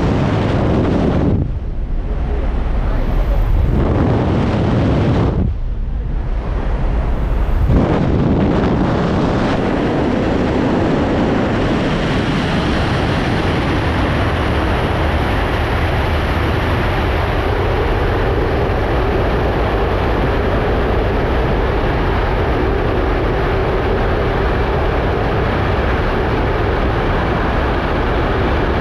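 Jump plane's engines running in a loud, steady roar, with wind buffeting the microphone; after two brief dips in the first few seconds the roar holds even, with a faint steady hum joining it.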